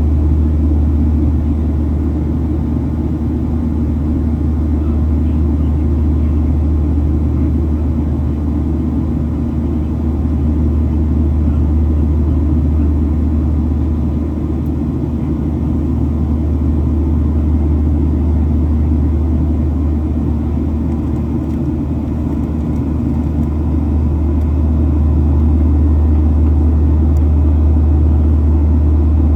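Steady low rumble of a Boeing 737-700 heard from inside the passenger cabin: engine and airframe noise, swelling slightly about three quarters of the way through.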